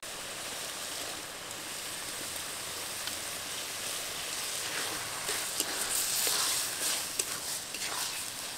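Potatoes, brinjal and spice masala frying in mustard oil in a kadai, sizzling steadily as washed masoor dal is added. The sizzle grows a little louder from about five seconds in, with a few light clicks.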